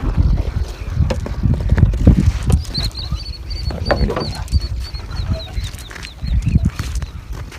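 A bird calls a fast run of short, high, slightly falling chirps, about a dozen in under two seconds, over low rumble of wind and handling on the microphone, with a few sharp clicks.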